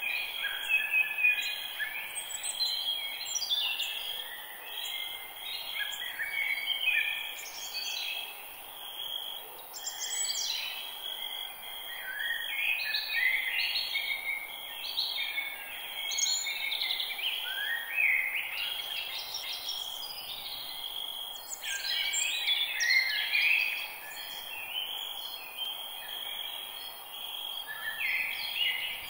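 A dense chorus of many forest birds singing and calling over one another, with quick chirps and whistles throughout, over a steady high-pitched buzz.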